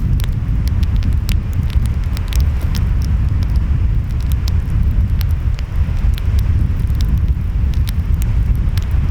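Wood fire crackling with many sharp, irregular pops over a steady low rumble of ocean waves and wind.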